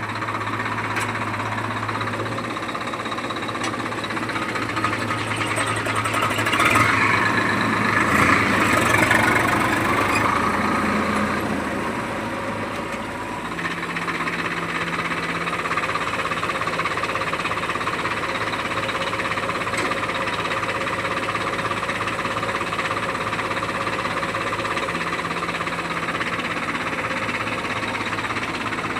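Heavy diesel engine running steadily, rising louder and harsher for a few seconds about a third of the way in, then settling back to a steady run at a slightly different pitch.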